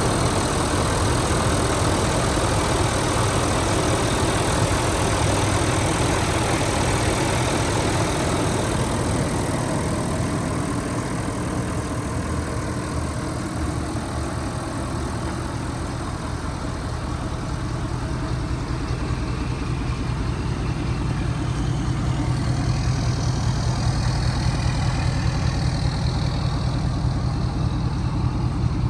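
2013 Ford F-250 Super Duty pickup's engine idling steadily with an even low hum.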